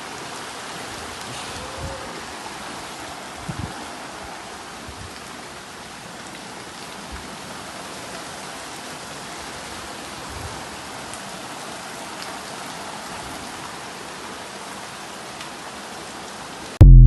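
Heavy rain falling steadily, an even dense hiss. Right at the end a sudden loud burst cuts in.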